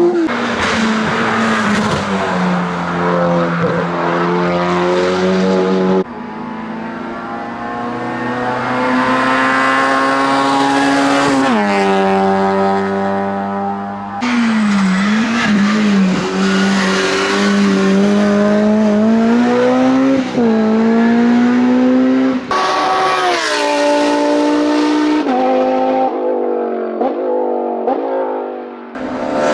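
Hillclimb race car engines at full throttle, several cars in turn, each revving up through the gears with sharp drops in pitch at the shifts. The sound changes abruptly several times as one car gives way to the next.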